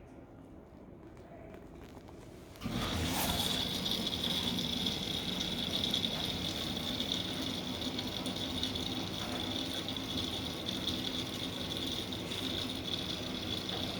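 A Miele Professional washing machine running with a low hum. About three seconds in, a much louder steady rushing sound with a high whine cuts in suddenly and carries on.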